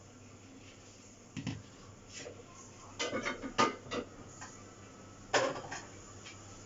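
Several short, sharp knocks and clinks of hard objects being handled: one early, a quick cluster about halfway through, and one loud knock near the end.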